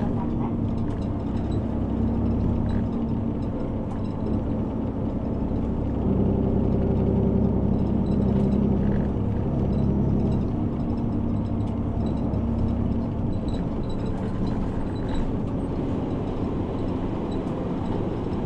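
City bus engine and drivetrain running, heard from inside the cabin while the bus drives. The engine's note shifts in pitch a few times.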